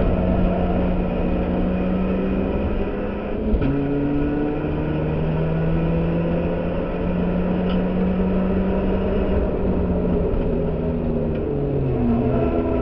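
Ford Fiesta race car's engine running at racing revs, heard from inside the stripped car. About three and a half seconds in the pitch drops suddenly with a short click, as at a gear change. It then climbs steadily for several seconds and falls in steps near the end as the car slows into a corner.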